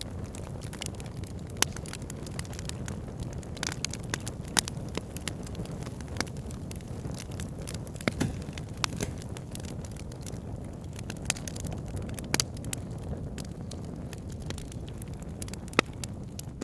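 Wood fire burning in a fireplace: a steady low rumble of flames with frequent irregular sharp crackles and pops, the loudest pops about a second and a half in, at around four and a half seconds, and near the end.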